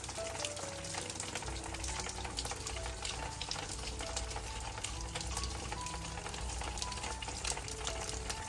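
Food sizzling as it fries in a hot pan, a dense steady crackle of many small pops. Soft music with a simple melody plays over it.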